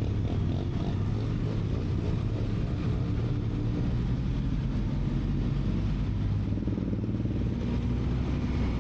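Benelli TRK 502X's parallel-twin engine running at a steady, even pitch.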